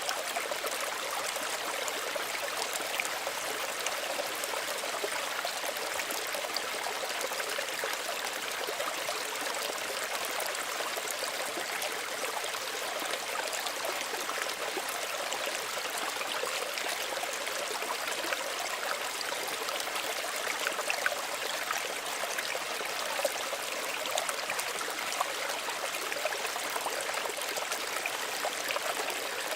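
Small stream running over stones: a steady, gentle rush of water with fine splashing and trickling.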